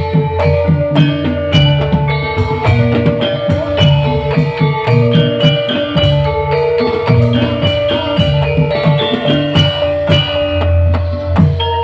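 Live band playing instrumental music: a steady drum beat under a melody of short, repeated struck or plucked notes.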